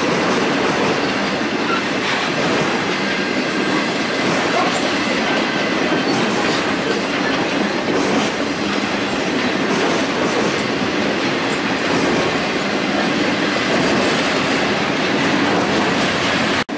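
Union Pacific intermodal freight train's cars rolling past close by: a steady rumble and clatter of steel wheels on the rails, with a faint thin wheel squeal running under it.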